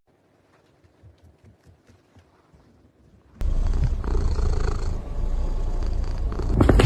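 Domestic cat purring close to the microphone, a steady low rumble that starts abruptly about halfway in after a near-silent stretch.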